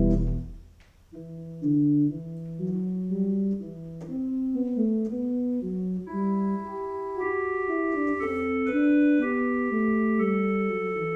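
An organ playing a slow melody in steady held notes, starting about a second in after a held chord cuts off. Higher notes join about halfway through, filling out the chords.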